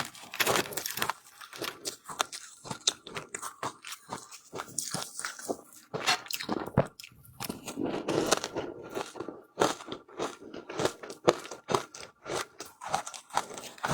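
Close-miked crunching of frozen ice being bitten and chewed: rapid runs of sharp crunches broken by short pauses.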